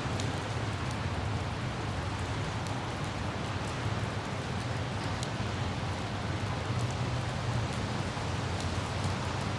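Light rain falling, with scattered faint drop ticks, over the steady low rumble and hiss of a car driving and wind.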